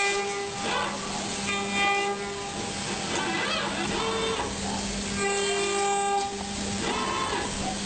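A multi-tone horn sounding in short blasts about a second long, repeated several times, over a steady low hum.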